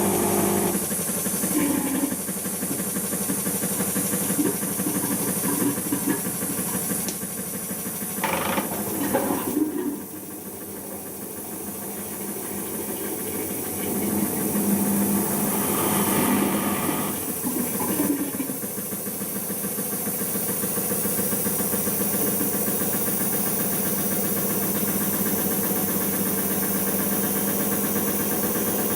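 Siemens iQ washing machine on its cotton intermediate spin, the motor and drum whirring steadily as it spins up toward 1000 rpm. The sound drops about ten seconds in, swells again with some uneven surges, then settles into an even, steady spin.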